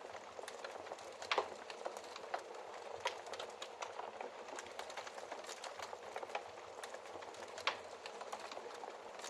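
Wood fire burning in a fireplace: a steady bed of soft crackling with scattered small clicks and two louder sharp pops, about a second in and near the end.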